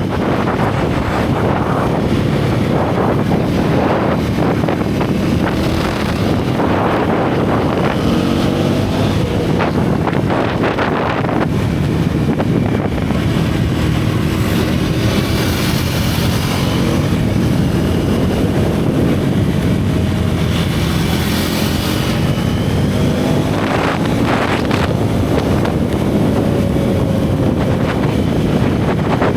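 Single-cylinder motorcycle engine pulling along a winding road, its pitch rising and falling with the throttle, with wind buffeting the microphone.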